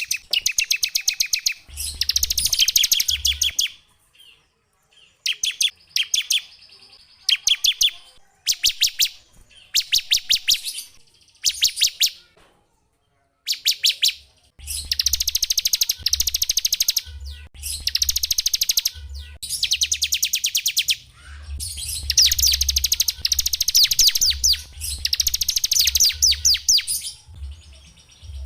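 Small songbird singing a series of high, rapid trills, each a fast run of repeated notes lasting from half a second to about three seconds, separated by short pauses.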